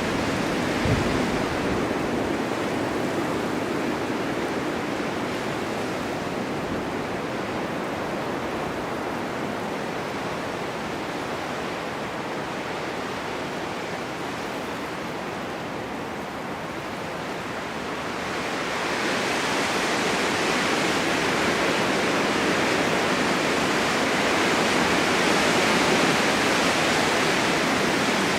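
Blizzard on a winter mountain: wind driving blowing snow in a steady, even rush. It grows louder and hissier about two-thirds of the way through as the wind picks up.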